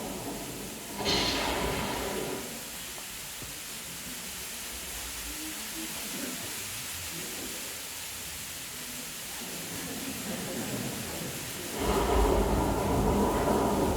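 A choir making the sound of a rainstorm without singing. About a second in comes a hissing swell, then a long, quieter patter of hiss, and near the end a loud, low, rumbling swell like thunder.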